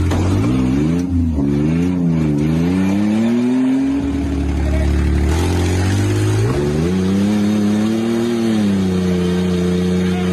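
A vehicle engine revving up and down several times, then held at steady high revs for the last few seconds.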